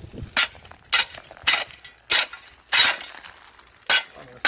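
Ice being struck again and again with a broomstick, cracking and shattering with each hit. There are about seven sharp strikes, roughly two a second, with a short pause before the last two.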